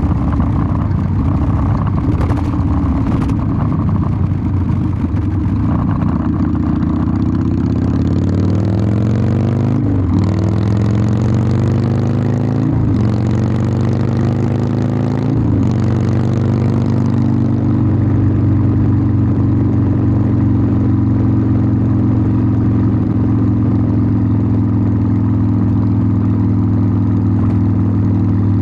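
Harley-Davidson Sportster 1200's air-cooled V-twin exhaust as the bike accelerates through the gears: the pitch rises and drops back at three upshifts a few seconds apart, then holds steady at a constant cruising speed.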